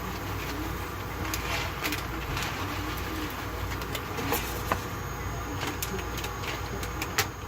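Dry farro grains going into a metal pan: scattered light ticks and clicks over a steady low hum.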